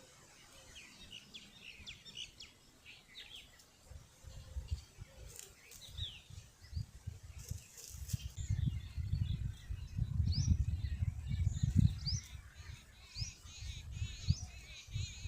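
Small birds chirping, with short high calls and quick sweeps scattered through. A low rumble builds underneath and is loudest in the second half.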